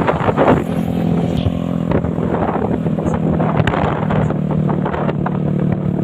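Truck engine running close by: a steady low hum with rough mechanical noise over it.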